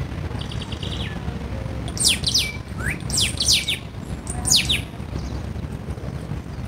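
Small birds chirping: a short rapid trill near the start, then clusters of quick downward-sliding chirps about two, three and four and a half seconds in, over a steady low rumble.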